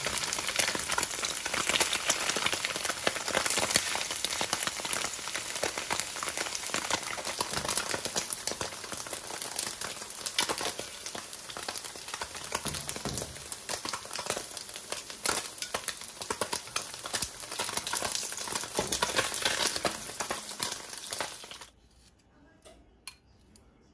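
Tofu slices sizzling and crackling in hot oil as they pan-fry golden brown in a nonstick wok. The sizzle cuts off suddenly near the end, leaving a few faint clicks of metal tongs setting the tofu on a plate.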